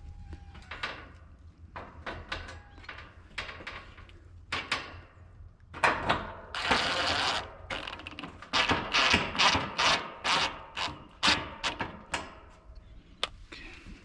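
Clicking and knocking from hand work on the AC unit's panels and fasteners. About six and a half seconds in there is a burst of rasping noise lasting about a second, followed by a run of about ten quick sharp clicks.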